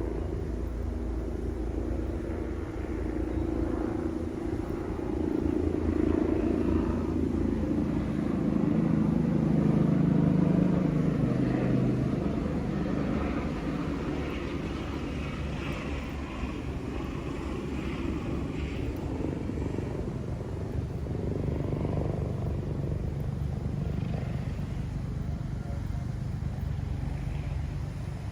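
An engine droning past over a steady low rumble. It grows loudest about ten seconds in, its pitch dropping as it goes by, then fades.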